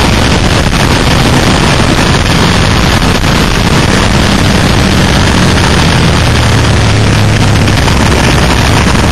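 Suzuki SV650's 645 cc V-twin engine running at track speed, under a loud, steady rush of wind on the onboard microphone.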